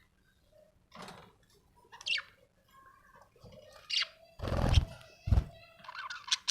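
Budgerigar chirping in short, scattered calls, some gliding in pitch. Two dull thumps come a little past the middle.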